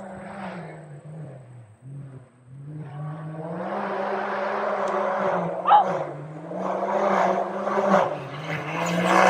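Can-Am Maverick X3 UTV's turbocharged three-cylinder engine running hard through an off-road course, its revs rising and falling and getting louder from about three seconds in. A brief high squeal about halfway through.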